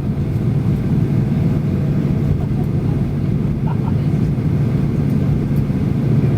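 Steady low rumble of engine and airflow noise inside the cabin of a Boeing 737 airliner, with a constant hum running under it.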